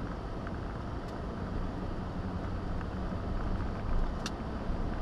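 Steady road and engine rumble inside a moving vehicle's cabin while driving, with a few faint clicks.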